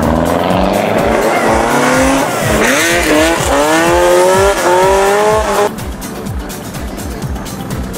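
Lancia Delta Integrale engine revving up, its pitch climbing, dipping once about two and a half seconds in, then climbing again before it cuts off suddenly near six seconds in, over background music with a steady beat.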